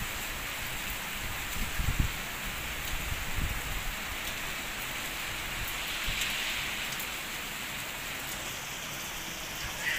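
Heavy rain falling steadily, a constant hiss with faint scattered drips. A low thump about two seconds in.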